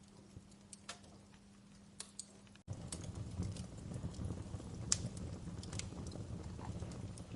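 Campfire crackling, with sharp scattered pops and snaps from the burning wood. About two and a half seconds in, the sound cuts out for an instant and comes back fuller, with a low rumble of flames under denser crackles.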